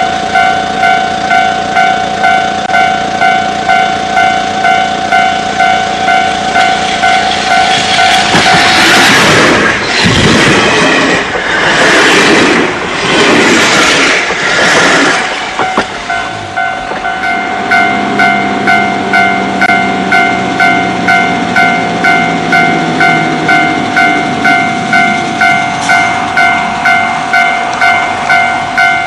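A level-crossing warning bell ringing steadily at about one and a half strokes a second, while an old JNR Class 73 electric train runs past loudly for about eight seconds in the middle. After it has gone the bell keeps ringing and a low falling whine fades away.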